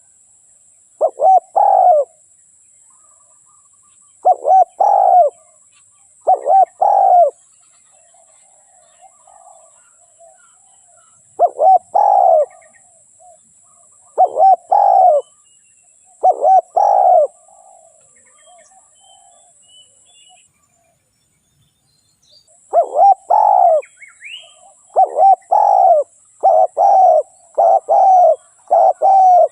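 Spotted dove cooing: short multi-note coo phrases repeated every two or three seconds. There is a pause in the middle, then a quicker run of phrases near the end. A faint steady high hiss lies underneath.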